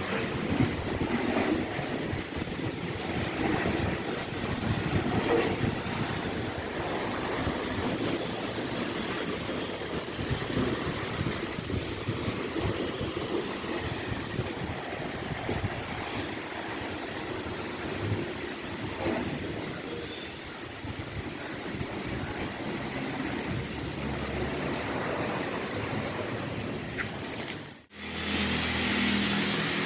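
Car-wash machinery running steadily with a hiss. It drops out briefly near the end and starts again.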